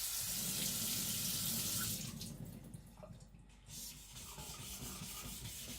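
Water running from a kitchen tap for about two seconds, then stops. Near the end, a steel knife blade begins rubbing in steady strokes on a wet whetstone.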